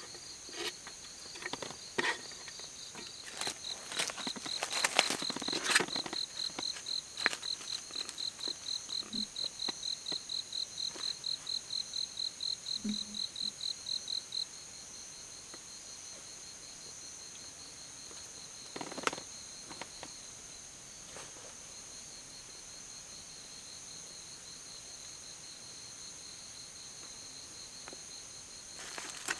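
Night insects singing: one calls in an even run of high chirps, about three or four a second, which drops away a little past halfway, over steady higher trills from others. Several sharp clicks and knocks come in the first few seconds and once more past the middle.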